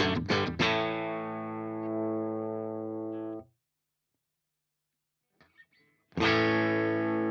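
Les Paul-style electric guitar played through a Fender Blues Junior IV tube amp, captured through a reactive load and speaker impulse response. A few quick picked notes lead into a chord that rings for about three seconds and is then cut off. After a pause with faint string noise, another chord is struck about six seconds in and left to ring.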